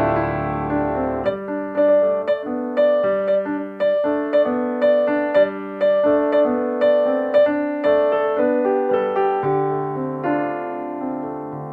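Background piano music: a slow melody of single struck notes, about two a second, each fading away, over a held low note.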